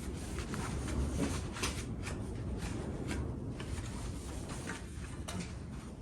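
A small parts tray being handled and wiped dry: scattered light clicks and rubbing noises over a steady low background hum.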